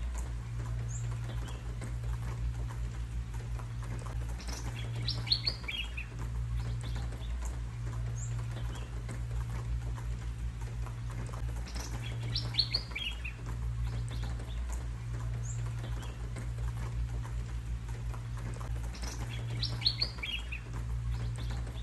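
Birds chirping, the same short burst of quick high notes coming three times, about every seven to eight seconds, over a steady rain hiss and a low hum.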